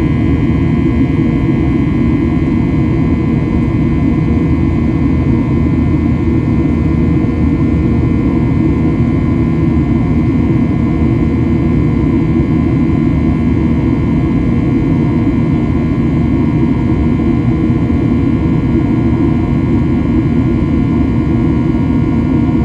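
Steady drone of a Boeing 737-800's CFM56-7B jet engines and airflow heard inside the passenger cabin, a heavy low rumble with faint steady whining tones above it.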